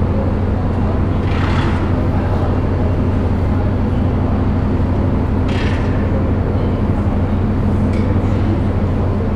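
Steady low drone of the cruise ship Mein Schiff 3's machinery as she leaves the quay, with a few short hisses over it.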